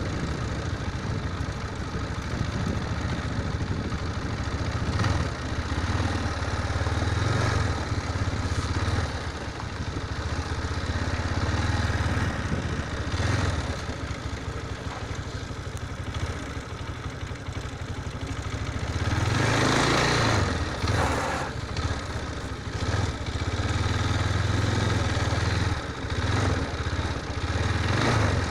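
Motorcycle engine running steadily with gentle swells in speed, and a louder rush of noise about twenty seconds in.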